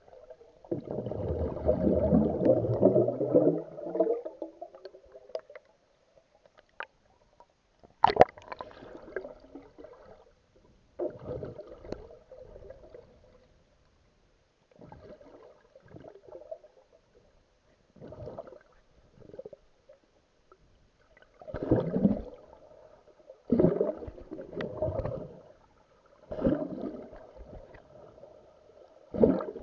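Water splashing and gurgling around a swimmer, in irregular bursts every couple of seconds, with a longer, deeper gush of water in the first few seconds.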